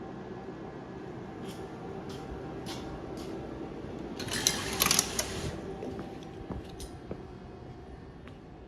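Electric train heard from inside the car: a steady running hum with faint clicks and rattles, and a short burst of hiss about four seconds in.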